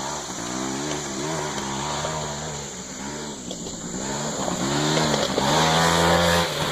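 Small single-cylinder engine of a 90cc Scrambler youth ATV being ridden, its revs rising and falling again and again as the throttle is worked. It gets louder and holds a higher rev from about five seconds in, then drops off sharply near the end.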